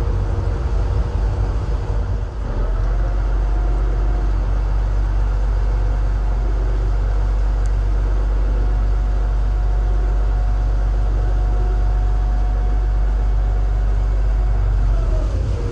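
A passenger ferry's engine running with a heavy, steady low drone. Its tone rises about two and a half seconds in, holds steady, and falls back near the end as the engine speeds up and then eases off.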